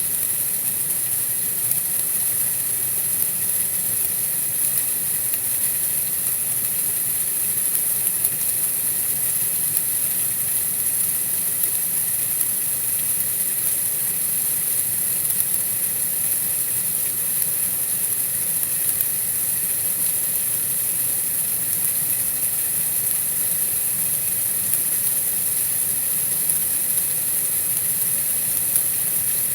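Steady white-noise hiss, even and unchanging, strongest in the highest pitches, with no separate events.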